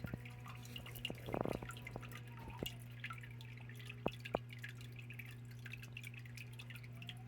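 Water from a small biotope waterfall trickling and dripping into the pool, many little drops falling continuously over a steady low hum, with a couple of sharper drips about four seconds in.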